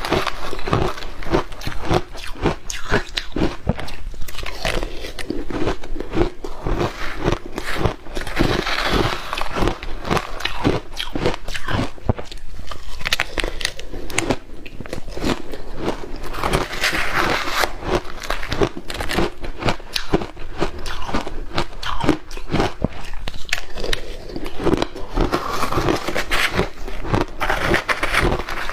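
Close-up biting and crunching of hard ice coated in matcha powder: a dense, unbroken run of sharp cracks and crunches.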